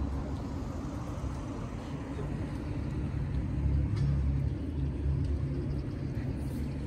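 Low, steady rumble of a motor vehicle engine idling close by, with one light click about four seconds in.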